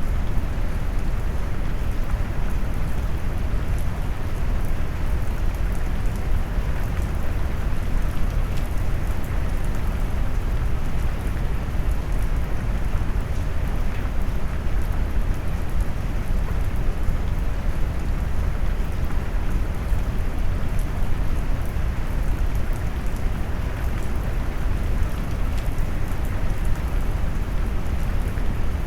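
Steady rain noise mixed with deep brown noise: an even, low rushing that is strongest in the bass, with faint scattered raindrop ticks above it and no change throughout.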